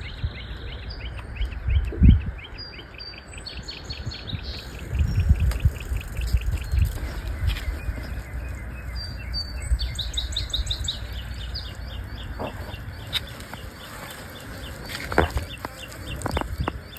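Songbirds chirping in quick repeated series of short high notes, over low rumbling noise on the microphone that swells a couple of times.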